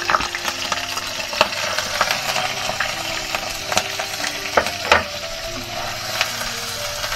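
Sliced shallots sizzling in hot oil in a wok, stirred with a spatula that knocks against the pan several times.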